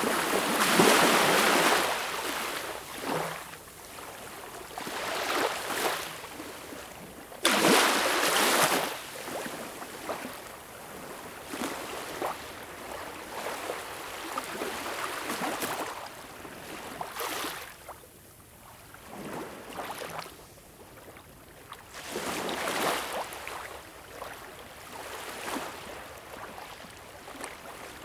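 Ocean waves breaking and washing onto the shore, a steady hiss that swells and falls back every few seconds, with the strongest surges at the start and about eight seconds in.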